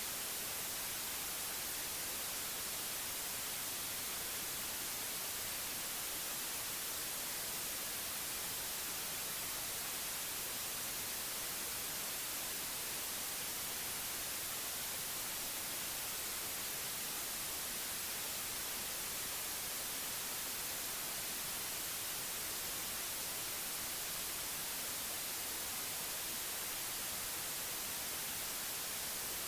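Synthetic white noise: a steady, even hiss, brightest in the high frequencies, with no change at any point.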